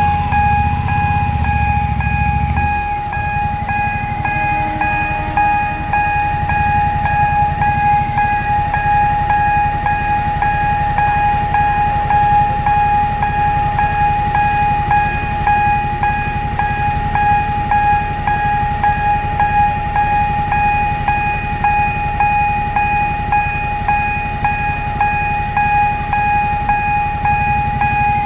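Level crossing warning alarm on the Alishan Forest Railway sounding continuously: a steady ringing tone struck in an even repeating beat. A train rumbles low underneath it, loudest in the first few seconds.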